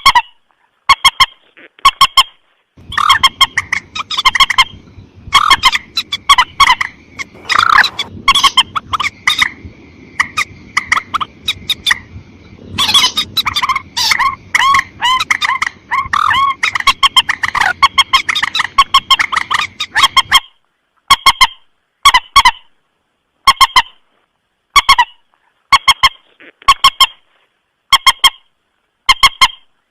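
Lure-call recording of the mandar sawah, a rail, giving short honking calls repeated in quick groups. In the middle there is a longer busy stretch of overlapping calls over a background hiss, and after it the calls return to evenly spaced groups.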